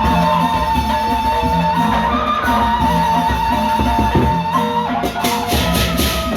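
Gendang beleq ensemble playing: drum beats under a long-held melody line. About five seconds in, quick cymbal strikes join in.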